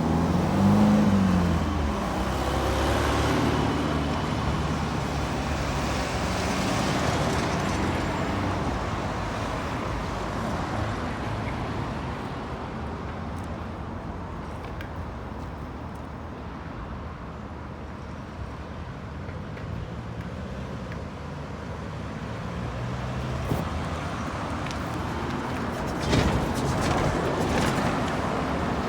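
Road traffic: vehicles driving past, their engines loudest in the first few seconds, dying down in the middle and building again near the end, with a couple of short knocks near the end.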